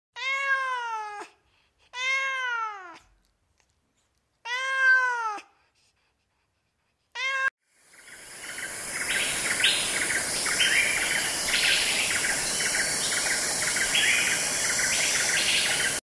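A cat meowing three times, each meow drawn out and rising then falling in pitch, and a fourth meow cut off short. A steady high chirping with hiss then comes in and carries on.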